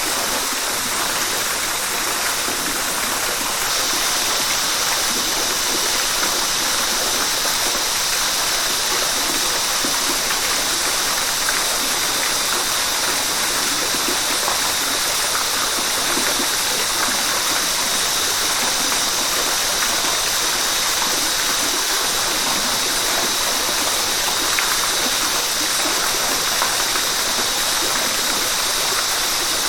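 River water rushing steadily. A steady high-pitched hiss joins about four seconds in and holds.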